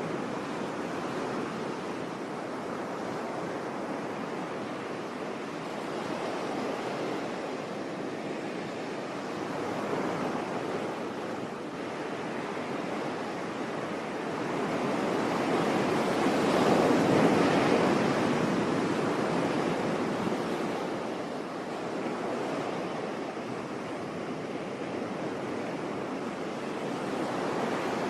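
Sea waves washing onto a beach: a steady rush of surf, with one wave swelling louder about halfway through and then falling away.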